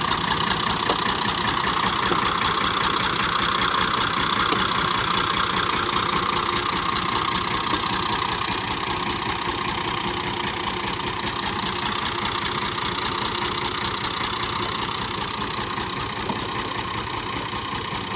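Tractor diesel engine running steadily at low revs, with a fast, even beat of firing strokes, slowly growing fainter.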